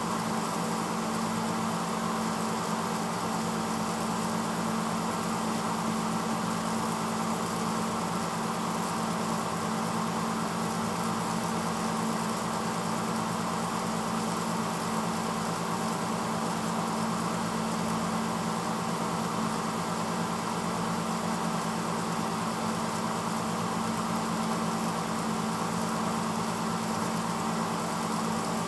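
1986 Hotpoint Potwasher dishwasher running mid-cycle: a steady motor hum under an even rushing noise, with no change in level.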